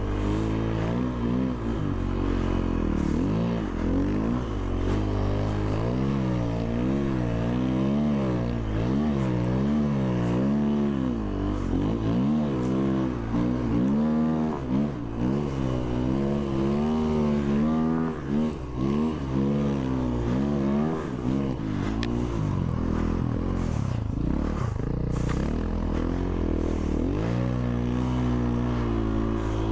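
Snow vehicle engine being ridden through deep powder, revving up and down over and over so its pitch swings rise and fall about once a second, with a few brief scrapes and clatters about three-quarters of the way through.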